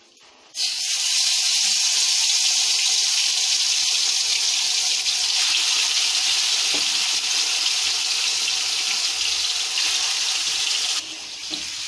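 Marinated chicken pieces frying in hot mustard oil in a kadai: a loud, steady sizzle that starts suddenly about half a second in as the chicken goes into the oil, and drops off near the end.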